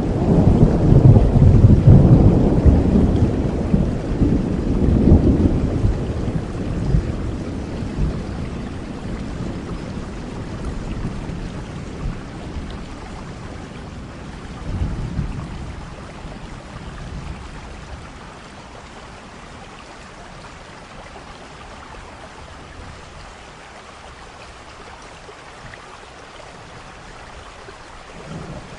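Thunderstorm: a loud, low rolling peal of thunder that fades away over about fifteen seconds, with a smaller rumble about halfway, over steady rain. Another rumble begins right at the end.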